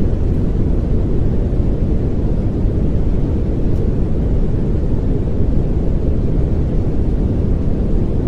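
Steady pink noise: an even, deep hiss that holds the same level throughout, with no tones or rhythm.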